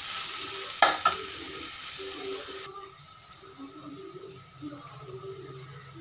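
Sliced onions, tomato and green chillies sizzling in oil in a granite-coated kadai, with a spatula knocking twice against the pan about a second in. The sizzle drops off abruptly a little under halfway through, leaving a quieter hiss.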